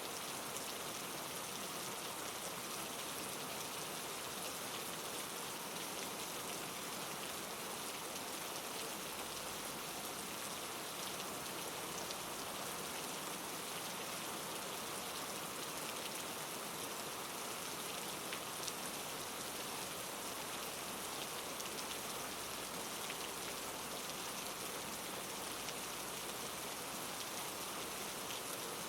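Steady rain falling, an even hiss with scattered drops landing on a surface; a rain-ambience bed with no narration over it.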